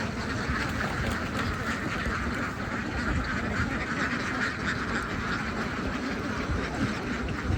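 A large flock of domestic ducks quacking all together in a steady, dense chatter.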